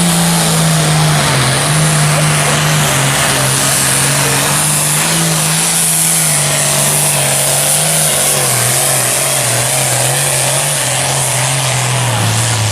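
A tractor engine labouring under full load as it pulls a weight sled down the track. Its note holds steady, then gradually drops as the tractor lugs down, and the run stops near the end.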